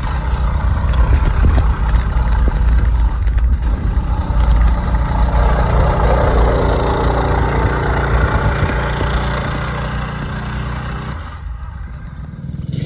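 Stage 1 Predator 212 single-cylinder four-stroke engine on a mini bike running steadily, freshly swapped in and started; its note drops about eleven seconds in.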